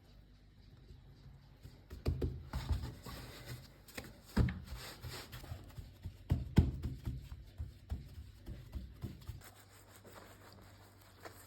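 Handling noises: rustling with several knocks, the sharpest about four and a half and six and a half seconds in, dying down near the end.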